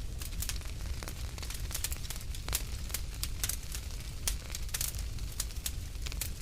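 Wood fire in a fireplace crackling and popping, with many irregular sharp snaps over a steady low rumble of the flames.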